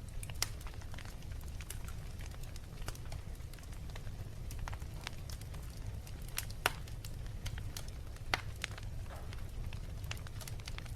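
Wood fire burning in a fireplace, crackling with irregular sharp pops over a steady low rumble; a few louder pops, the biggest about two-thirds of the way in.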